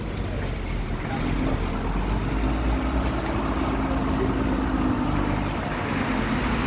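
Diesel truck engine running steadily, getting louder about a second in.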